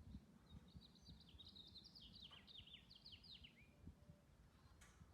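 Near silence with faint bird song: a quick series of falling chirps lasting about three seconds, starting about a second in, over a faint low rumble.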